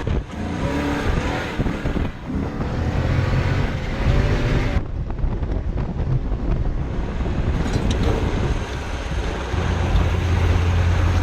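Toyota Tundra 5.7 L V8 running through an aftermarket muffler exhaust, pulling hard twice with the pitch climbing each time. It then eases off about five seconds in and settles into a steady low drone.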